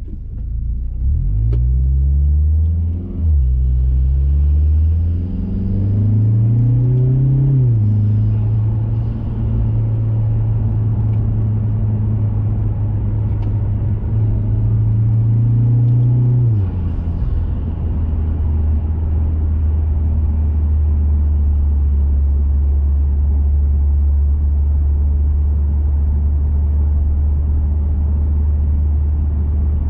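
Mazda 3 Turbo's turbocharged 2.5-litre four-cylinder, through a CorkSport 80 mm cat-back exhaust, pulling up through the gears with upshifts about 1.5, 3 and 7.5 seconds in. It then holds a steady cruise, and about halfway through the pitch drops and it settles into a lower, steady drone.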